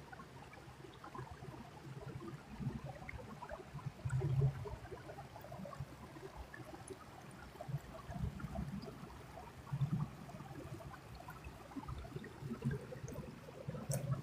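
Creek water trickling and gurgling, a steady scatter of small splashes, with a few low thuds now and then.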